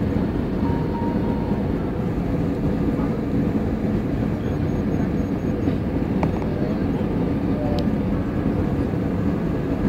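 Steady low rumble of an airliner's engines and airflow heard from inside the cabin during landing.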